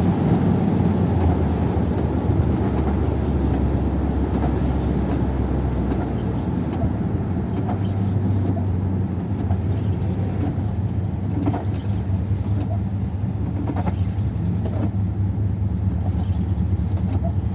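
A 1957 Ford Thunderbird's Y-block V8, running on only two barrels of its carburettor, drones steadily while the car cruises, heard from inside the open cabin together with road noise.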